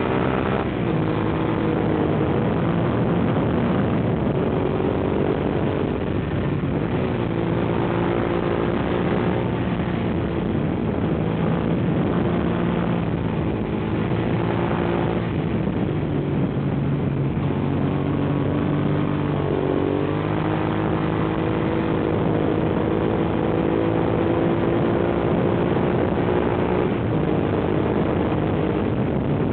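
Suzuki SV650's V-twin engine under way, its note rising and dropping several times as the rider works the throttle and gears.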